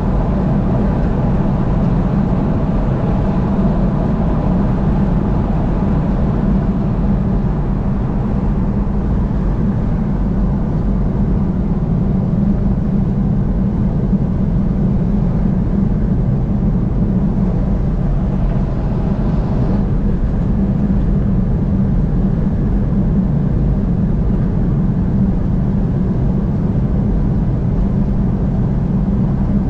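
Car driving at highway speed: a steady rumble of road and engine noise that holds even throughout.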